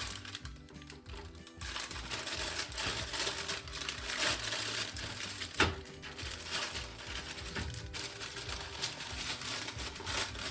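Crinkling and rustling of something being handled, over soft background music, with one sharp click about halfway through.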